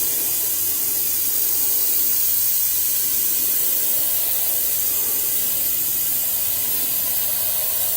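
Dual-action airbrush spraying thinned acrylic paint: a steady, even hiss of air and paint as the trigger is held down.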